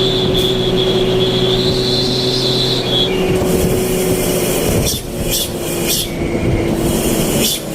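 Motorcycle engine running loudly through an aftermarket 'knalpot cung' exhaust. Its steady note changes about three seconds in, and several sharp bursts follow in the second half.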